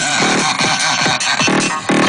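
Loud electronic dance music blasting from car trunk sound systems, with gliding synth tones in the first half and a pounding beat starting near the end.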